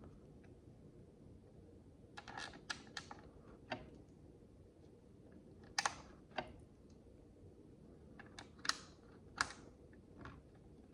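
Miniature plastic micro building bricks being handled and pressed together: sharp little clicks in small clusters, with pauses of a second or two between them.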